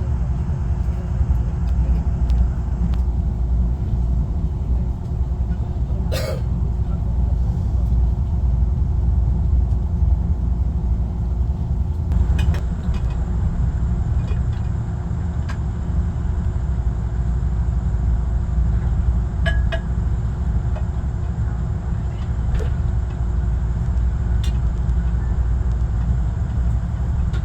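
Steady low rumble of a Saemaeul-ho passenger train running on the Honam Line, with a faint steady hum and a few sharp clicks, the loudest about six seconds in.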